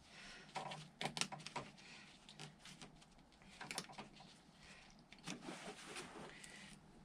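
Faint clicks and rustling of hand work, plastic cable ties being fitted and pulled tight, with a few short clusters of rapid clicks.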